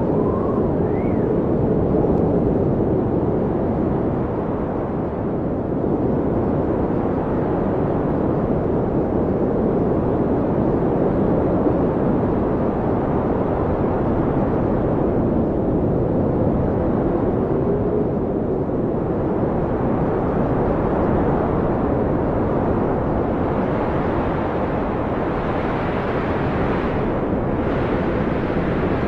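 Blizzard wind blowing hard, a steady low rushing noise with faint whistling howls that rise in pitch near the start.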